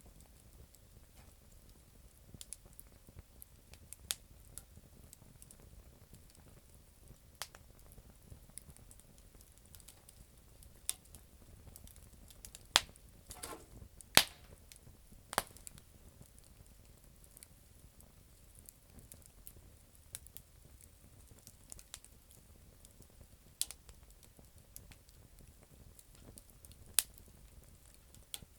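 Campfire of damp firewood burning: sparse, sharp crackles and pops over a faint low rumble, with a cluster of louder pops in the middle and a short hiss among them.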